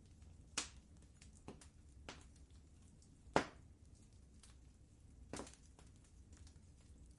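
Wood fire crackling in a fireplace: a faint low rumble with scattered small crackles and three sharper pops, the loudest about halfway through.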